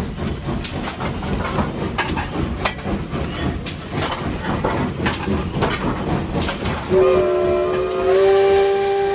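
Cab of steam locomotive No. 81 under way: a steady rumble of the running engine with repeated sharp clanks and clicks. About seven seconds in, the steam whistle sounds a chord of several notes, its upper notes stepping higher about a second later and held.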